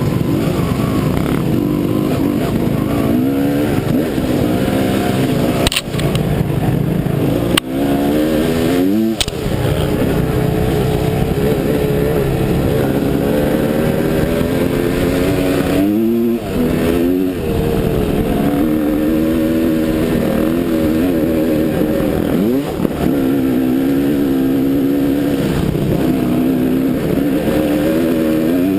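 Dirt bike engine running under load as it is ridden, its revs rising and falling continually. Several times the revs drop sharply for a moment, with a sharp click at each drop.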